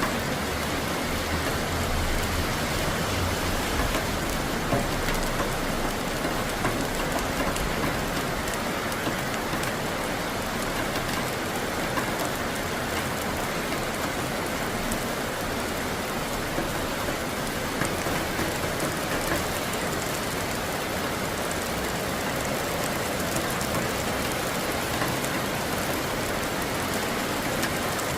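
Steady heavy rain falling and pattering on surfaces, with a faint low rumble in the first few seconds.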